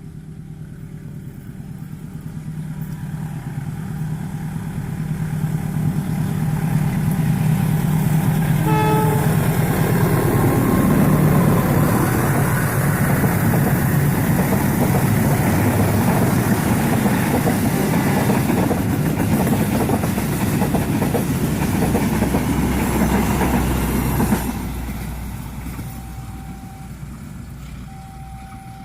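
CC203 diesel-electric locomotive approaching with its engine humming steadily and growing louder. A short horn note sounds about nine seconds in. The train then passes close by, its wheels clattering loudly on the rails for about fifteen seconds, and the noise drops sharply and fades once the last coach has gone by.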